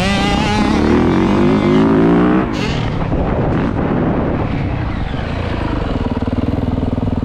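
Mini dirt bike engine revving with its pitch climbing. About two and a half seconds in, the throttle closes suddenly with a brief knock, and the engine drops to a lower, steady pulsing run.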